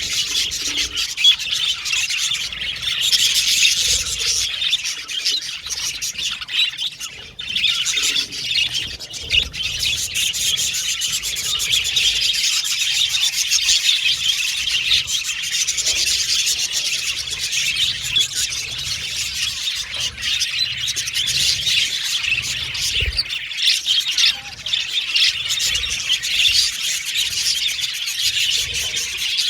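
A group of budgerigars chirping and chattering, many high calls overlapping in a dense, unbroken flow, with a brief lull about seven seconds in.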